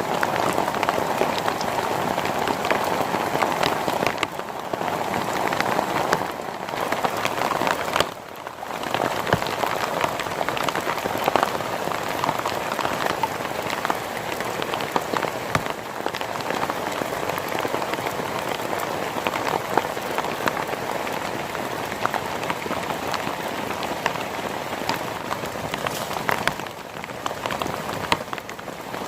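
Heavy rain falling steadily, a dense crackle of drops hitting a surface, with a brief lull about eight seconds in.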